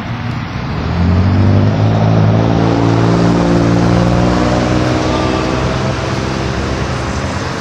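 A vehicle's engine running, getting louder about a second in, holding steady, then easing off toward the end, as when a car drives by.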